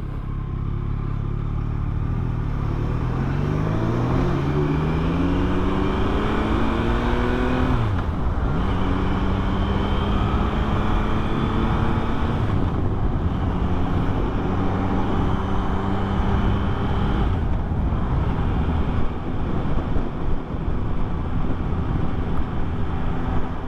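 Yamaha MT-09's 890 cc inline three-cylinder engine pulling away and accelerating through the gears. The pitch climbs in each gear and drops at three upshifts, then the bike settles to a steadier speed near the end.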